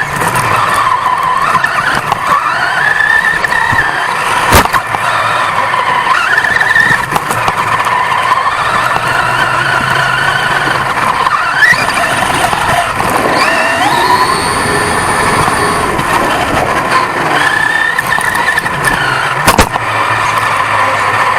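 A 1/10-scale off-road RC truck's motor and gears whining, the pitch rising and falling over and over with the throttle, heard from a camera mounted on the truck itself. Two sharp knocks come through, about four and a half and nineteen and a half seconds in.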